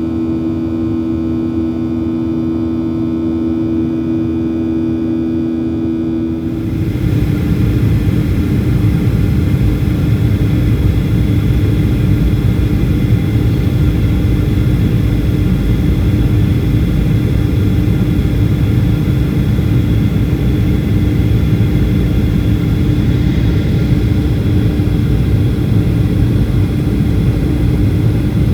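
Two steady hums, then about six seconds in a jet airliner's engines take over: a steady, loud low rumble with one held tone that neither rises nor falls.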